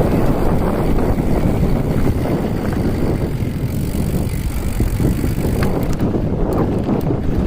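Wind buffeting the microphone, a loud low rumble that keeps rising and falling, with a few faint clicks near the end.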